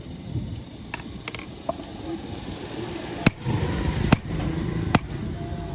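Hammer blows on metal: a few light taps, then four sharp, evenly spaced strikes a little under a second apart, each ringing briefly.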